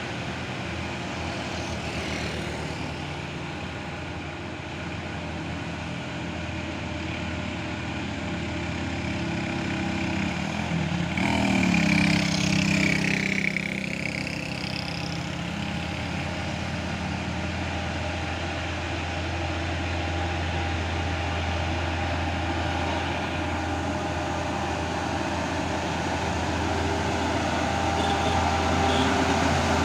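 Truck engines running under load as heavy vehicles climb a steep grade, a steady low drone. About eleven seconds in a vehicle passes close, louder for a few seconds, its pitch rising and then falling away.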